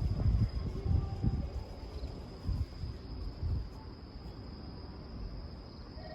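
Low rumbling and knocking of a train in motion, heaviest in the first few seconds and then easing off, with a faint steady high-pitched tone over it.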